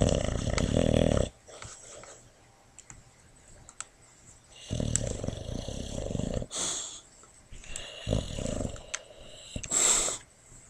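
Boxer dog snoring in her sleep: several separate snoring breaths with quiet pauses between them, the one near the end a short hissing breath.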